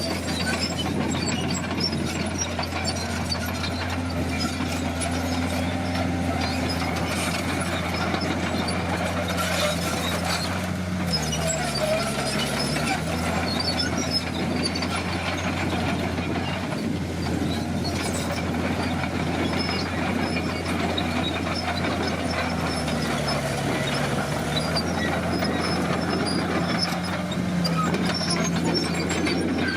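Komatsu D50 crawler bulldozer's diesel engine running hard, its pitch sagging briefly under load twice, about eleven seconds in and again about twenty-three seconds in, before picking back up.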